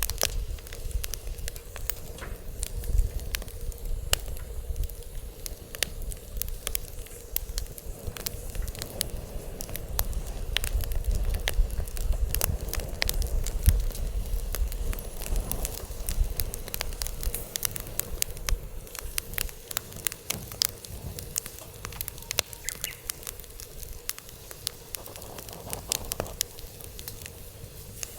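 Wood fire burning, crackling with frequent irregular pops and snaps over a low rumble that swells around the middle.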